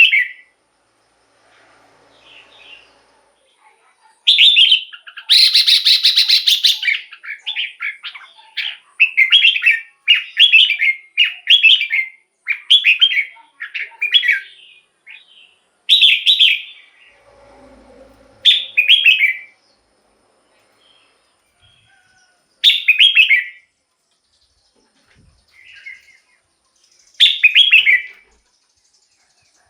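Red-whiskered bulbul singing: loud, short warbled phrases. They come in a quick run through the first half, then singly every few seconds with pauses between.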